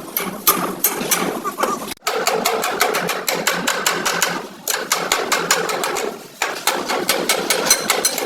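Rapid hammer blows on the sheet-metal body panels of a crashed Suzuki Bolan, with a metallic ring, in a run of quick strikes broken by two short pauses.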